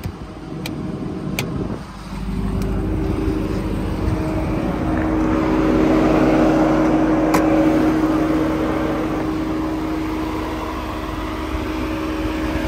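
Ram TRX's supercharged 6.2-litre Hemi V8 idling with a steady rumble and hum, growing louder about two seconds in. A few sharp clicks stand out, two near the start and one about seven seconds in.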